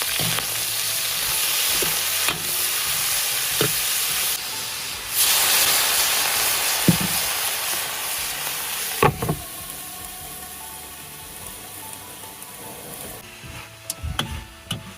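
Pork and long beans sizzling as they are stir-fried in a wok over a gas flame, with a few clacks of the spatula against the pan. The sizzle dips and surges again about five seconds in, then gradually dies down near the end.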